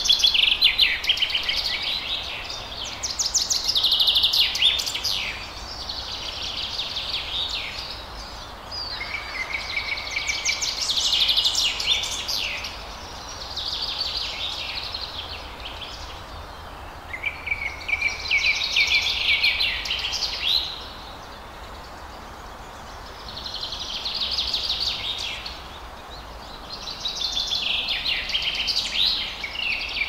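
A songbird singing rapid, trilled high-pitched phrases, each lasting two to three seconds and repeated every few seconds, over a steady background hiss.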